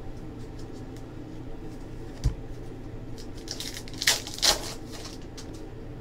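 Basketball trading cards being handled and sorted: light clicks and rustles, a low thump about two seconds in, and two louder swishes of cards or pack wrapper about four seconds in, over a steady room hum.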